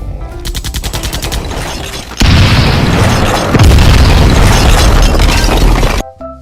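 A rapid rattle of clicks, then a sudden loud explosion-like boom that swells and rumbles for about four seconds before cutting off, with music.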